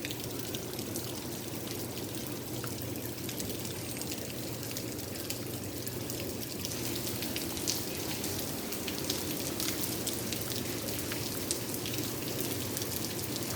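Rain falling steadily, with a constant hiss of water and many small, sharp drop impacts.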